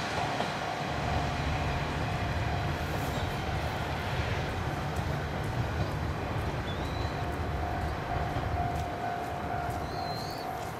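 Japanese diesel railcars, a KiHa 38 coupled with a KiHa 37, running on the line: a steady low rumble with a steady high whine over it, easing off slightly near the end.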